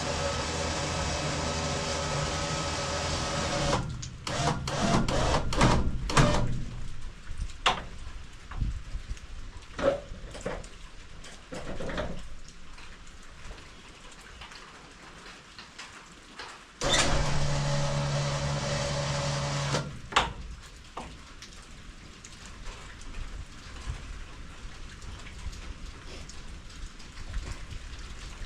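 A small motor on the sawmill runs steadily for about four seconds, then stops, followed by a string of knocks and clunks of wood and metal. The motor runs again for about three seconds, then stops, leaving scattered light ticks.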